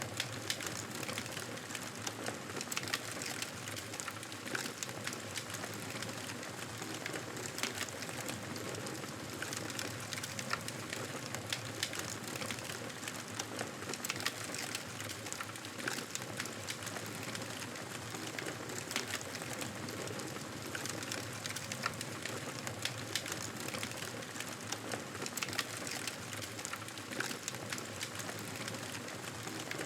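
Fire crackling in a fireplace: a steady hiss with frequent small, sharp pops and snaps.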